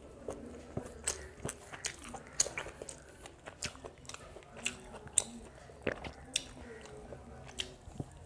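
Close-miked chewing of chicken biryani eaten by hand, heard as irregular sharp mouth clicks, a few every second.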